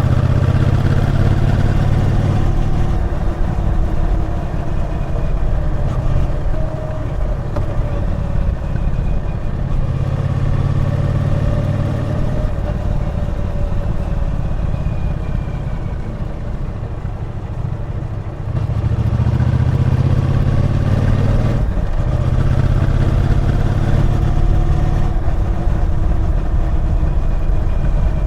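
Triumph Bonneville T120's 1200 cc parallel-twin engine under way on the road. The note rises and falls as the throttle is worked, easing off through the middle, then opening up and pulling harder again about two-thirds of the way through.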